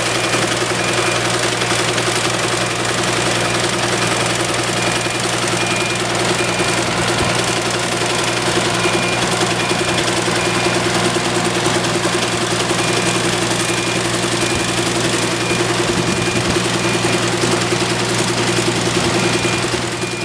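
Excavator's diesel engine running steadily under load while it drives the hydraulic sickle bar mower, with a dense high chatter over the engine note. A short high beep repeats at an even pace for most of it.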